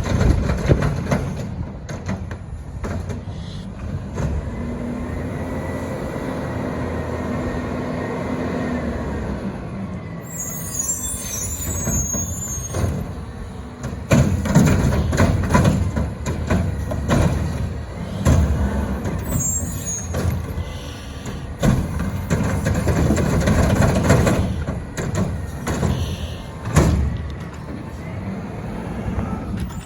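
Garbage truck running with a steady whine from its engine and hydraulics for several seconds. Its air brakes hiss about ten seconds in and again near twenty seconds, and in the second half there are many loud, irregular knocks and bangs from the truck's lifting and compacting gear.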